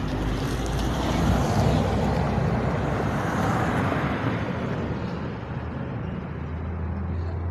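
A motor vehicle passing on the road. Its engine hum and tyre noise swell over the first few seconds and then slowly fade.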